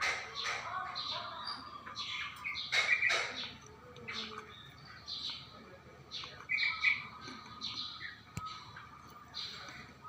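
Yellow-vented bulbul calling: a run of short, irregular chirping notes.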